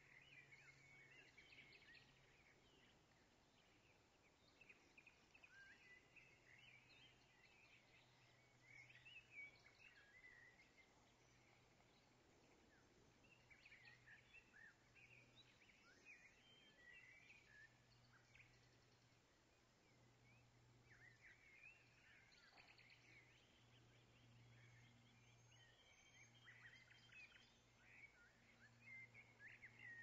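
Faint chirping and twittering of small birds, coming in scattered clusters of quick short notes, over a faint low hum.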